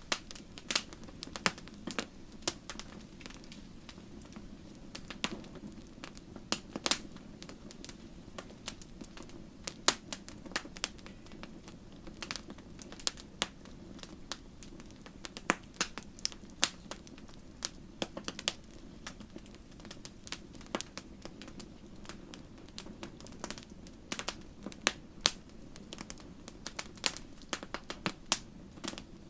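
Campfire crackling: irregular sharp pops and snaps, several a second at times, over a steady low rush of burning.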